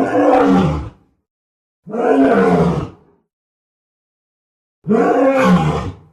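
Lion roar sound effect: three short roars of about a second each, separated by silence, each dropping in pitch.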